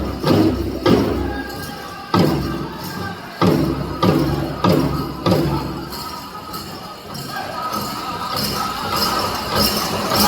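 Powwow drum struck in a steady beat of a bit under two beats a second under singing. The drumbeats stop about six seconds in, and singing and the jingle of dance bells grow louder near the end.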